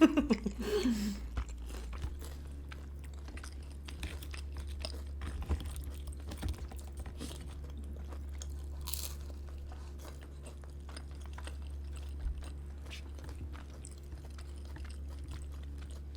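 Close-miked chewing and small wet mouth clicks of someone eating dumplings and buns, over a steady low hum.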